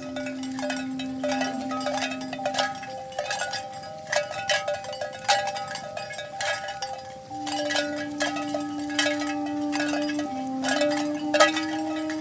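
Cowbells on a walking herd of cattle clanking irregularly, many overlapping strikes that each ring briefly, with a low steady tone held underneath for a few seconds near the start and again in the second half.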